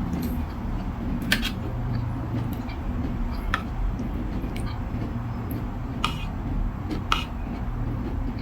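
Eating from a bowl of noodle soup: a few sharp clicks of utensils against the bowl, about four in all, over a steady low hum.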